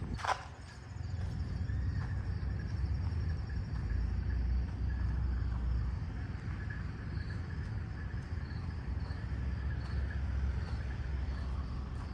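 A steady low engine rumble, with a sharp click just after the start and faint insect chirping above it.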